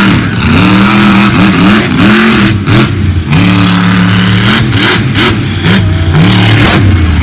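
Monster truck engine revving hard, its pitch swinging up and down in repeated throttle blips, held level for about a second near the middle, with a couple of sharp breaks.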